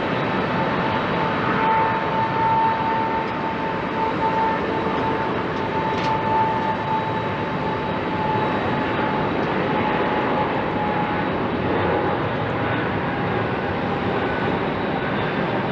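Jet engines of a Boeing 777-200ER airliner running steadily, a high whine over broad engine noise that drifts slowly lower.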